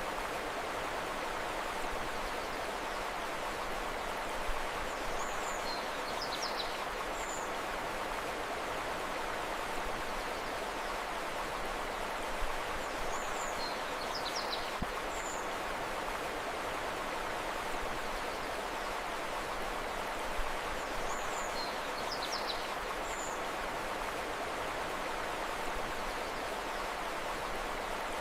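Steady rush of a flowing river, with a short cluster of high bird chirps that recurs about every eight seconds.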